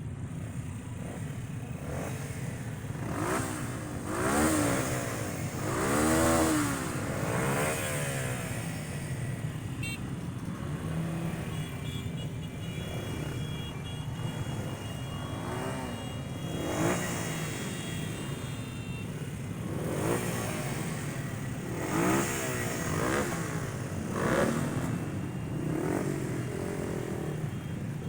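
Cars and motorcycles driving past one after another, engines repeatedly revving up and dropping back, over a steady low rumble of idling engines.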